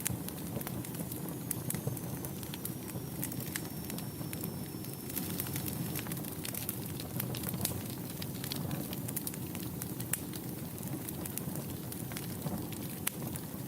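Wood fire burning in a fireplace: a steady low rumble of flames with frequent sharp, irregular crackles and pops. From about a second in, a faint high whistle slides slightly down in pitch for several seconds.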